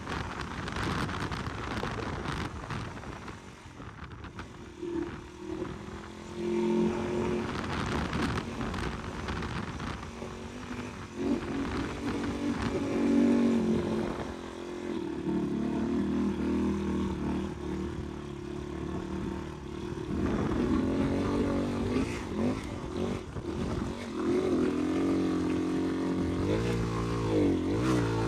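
Dirt bike engine working up a steep hill climb, its revs repeatedly rising and falling with throttle and gear changes. A rushing noise with no pitched engine note fills the first few seconds.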